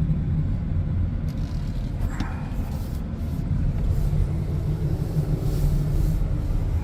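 Steady low rumble of a car being driven slowly, heard from inside it: engine and tyre noise.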